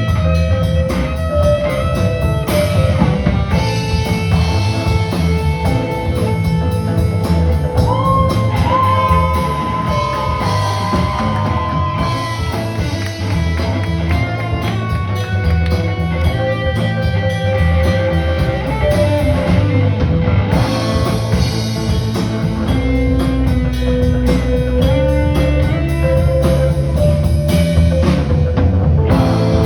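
A live rock band playing an instrumental passage: guitar over bass and a drum kit. The lead guitar bends a note up and holds it about eight seconds in.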